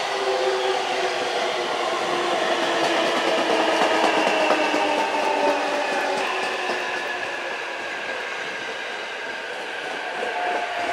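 Electric commuter train pulling in past the platform and braking: running rumble with a whining tone that falls slowly in pitch as it slows.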